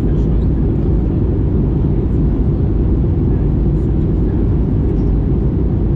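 Steady low roar of engine and airflow noise heard inside the passenger cabin of an Airbus A319-100 in flight.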